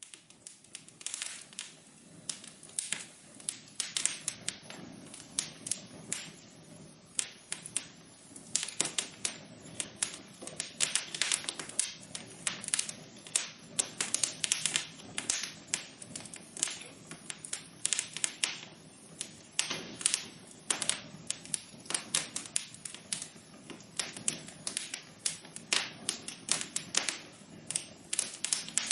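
Wood fire in a fireplace crackling, with many irregular sharp pops and snaps over a soft steady hiss of burning.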